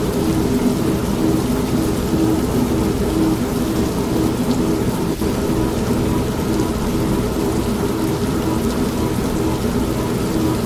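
Steady rain with a low thunder rumble, mixed with an old manual washing machine running, its motor hum pulsing in a steady rhythm.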